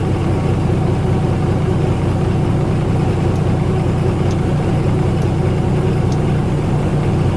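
Freshly rebuilt Nissan RB-series straight-six idling steadily at low revs, moments after its first start-up following the rebuild.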